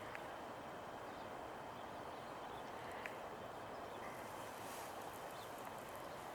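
Quiet outdoor background: a faint, steady hiss with two brief, faint high ticks, one right at the start and one about three seconds in.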